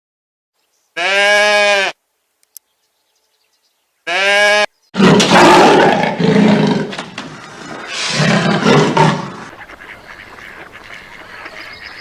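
Animal calls: two short pitched calls about a second long, a few seconds apart, then a louder, rougher call lasting several seconds in two strong surges that fades out.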